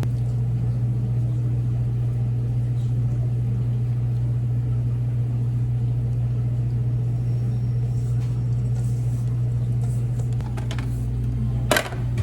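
A steady low machine hum, with a brief sharp clatter near the end.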